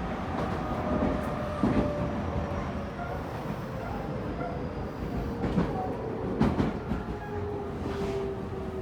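Running sound heard inside a Tobu 9050 series EMU car, right above its Toyo two-level GTO-VVVF inverter: the inverter and traction-motor tones slowly fall in pitch over a steady rumble. The wheels knock over rail joints a few times.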